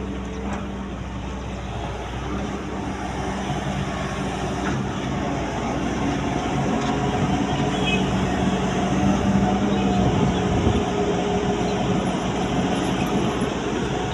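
Heavy machinery diesel engine running steadily, growing louder through the middle.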